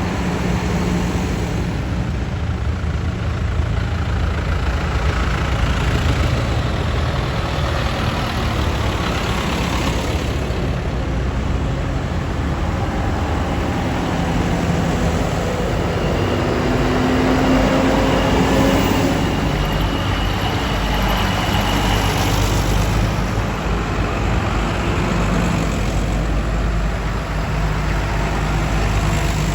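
Vintage tractor engines running as tractors drive past on the road, a steady low diesel rumble with an engine note that rises briefly just past the middle.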